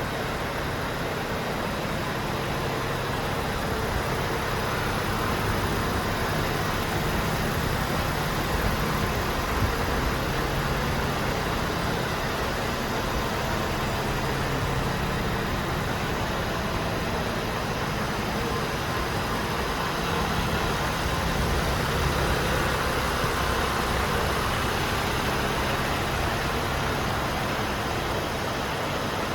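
Iveco Stralis Hi-Way 460 tractor unit's turbocharged six-cylinder diesel engine idling steadily.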